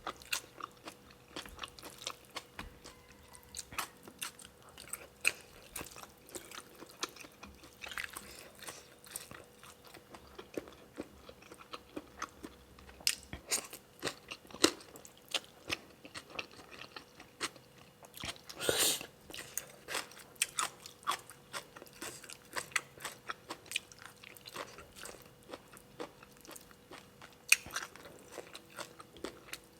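A person eating close to the microphone: many small crunching and chewing clicks. About 19 seconds in there is one longer, louder noise.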